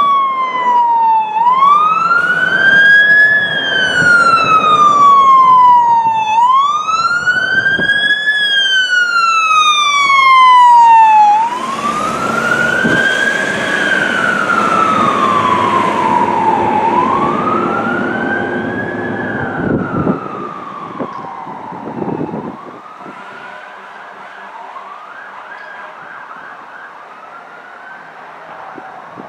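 Fire engine's siren wailing, sweeping slowly up and down in pitch about every five seconds. It is loudest for the first ten seconds or so, then grows fainter and fades away over the last third as the engine moves off.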